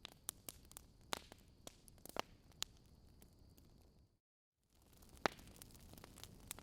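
Campfire crackling softly: irregular sharp pops and snaps over a low hiss. A little after four seconds in the sound drops out completely for about half a second, then the crackling resumes.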